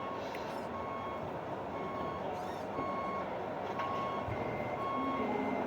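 Reversing beeper from an RC model truck or loader's sound module, short high beeps about once a second over steady running noise. A lower tone comes in near the end.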